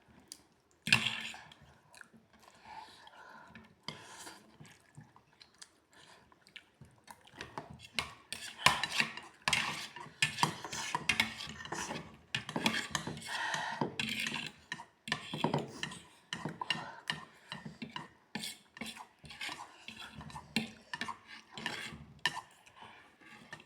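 Cutlery clinking and scraping against dishes while eating noodles, in short irregular clicks that come thicker after the first few seconds.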